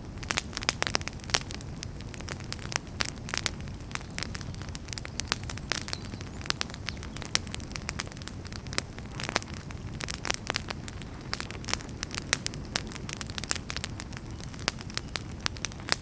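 Wood fire burning, with frequent, irregular sharp crackles and pops from the burning firewood over a steady low rumble of the flames.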